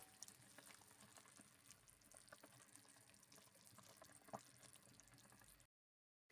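Near silence: faint room tone with scattered small kitchen clicks and ticks, then dead silence for the last half second.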